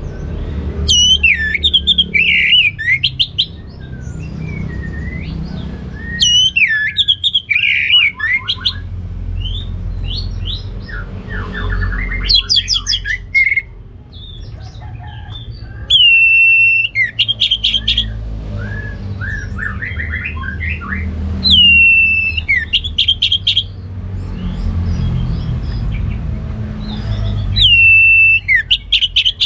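Orange-headed thrush singing about six loud, varied song phrases a few seconds apart. Several open with a held whistled note and run into quick trills.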